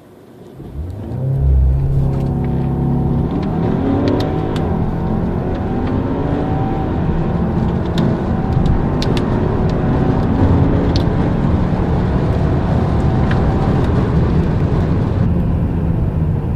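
A car's 2.0-litre turbocharged four-cylinder engine accelerating hard from a standstill. The engine note climbs in pitch and drops back at each gear change, and the sound cuts off abruptly near the end.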